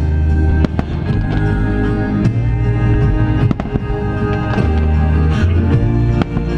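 Loud orchestral-style show music with a heavy bass over loudspeakers, with several sharp firework bangs cutting through it at uneven intervals.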